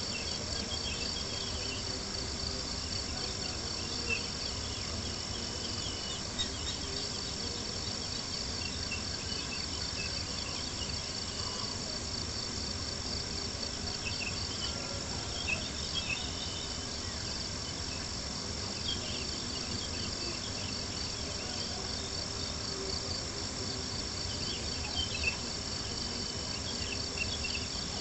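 Crickets chirping in a steady, fast-pulsed chorus, with a few soft crackles from a campfire and a low, even rumble underneath.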